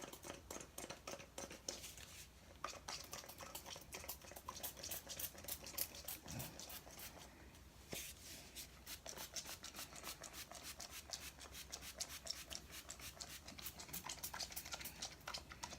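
Spray bottle of hair product pumped over and over, giving short hissing spurts several times a second; the bottle is nearly empty.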